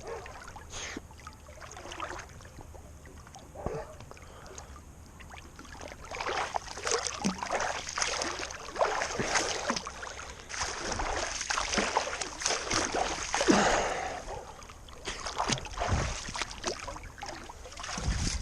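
Water splashing as a person swims, with only a few small splashes for the first several seconds, then busy irregular splashing from about six seconds in.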